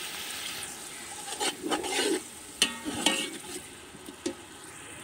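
Onion, tomato and salt masala sizzling steadily in a large metal pot, with a metal skimmer stirring it and clinking and scraping against the pot in a run of strokes from about one and a half to three and a half seconds in, and once more near the end.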